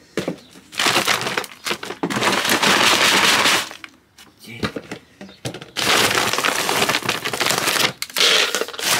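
A feed sack of maize being handled, crinkling and crackling in two long spells with a short pause between.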